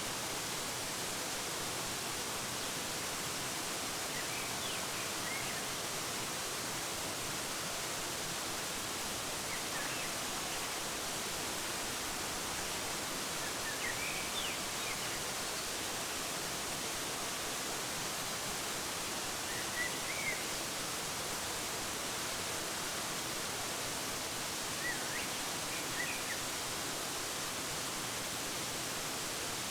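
Steady rushing hiss of a waterfall, with short bird chirps every few seconds.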